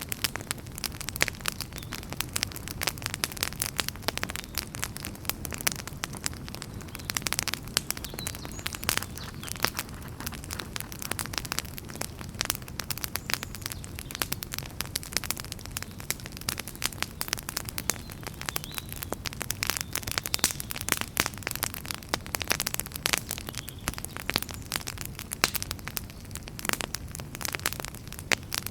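Wood fire burning in a fireplace: a steady low rumble with dense, irregular crackles and pops throughout.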